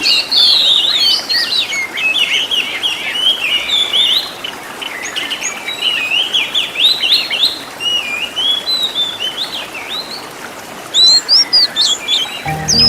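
Oriental magpie-robin (kacer) singing a fast, varied song of high whistled chirps, slurs and trills, softer for a few seconds in the middle and louder again near the end.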